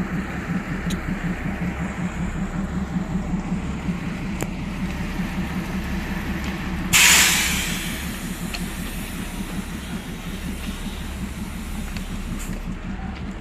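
Railway locomotive engine running steadily, with a sudden loud burst of hissing air about halfway through that fades over about a second.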